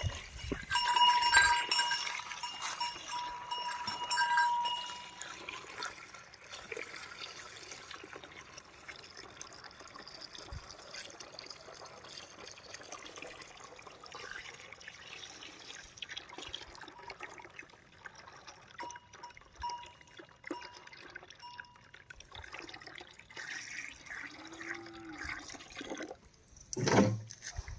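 Horse drinking water, with faint, steady slurping and sloshing. A bell rings for the first few seconds, and there is a brief louder sound near the end.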